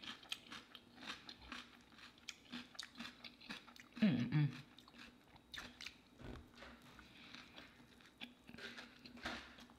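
Close-miked chewing and biting of a fried fish taco: soft crunches and wet mouth clicks, repeated many times. About four seconds in comes a short hummed "mmm" of enjoyment.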